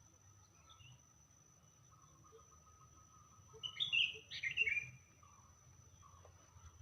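A bird calling: faint chirps, then two loud chirping phrases close together about halfway through, over a faint steady high-pitched tone.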